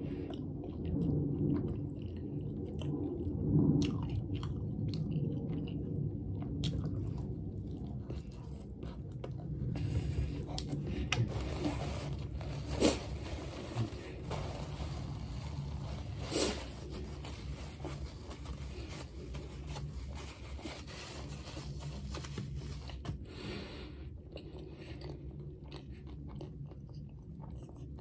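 Close-miked chewing of a mouthful of sandwich. From about ten seconds in, a paper sandwich wrapper crinkles for around a dozen seconds, with two sharper crackles, then the chewing carries on alone.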